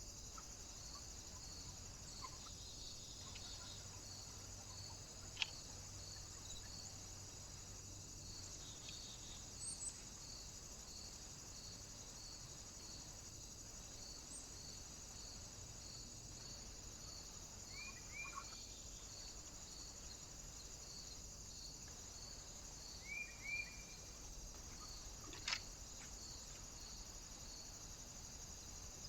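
Faint outdoor background with a steady high hiss and a soft regular chirp about twice a second. A few short bird calls come in the second half, and two sharp clicks sound, one about five seconds in and one near the end.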